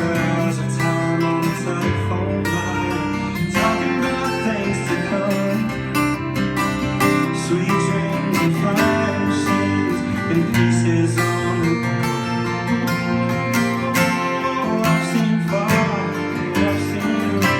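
Acoustic guitar strumming chords in an instrumental passage.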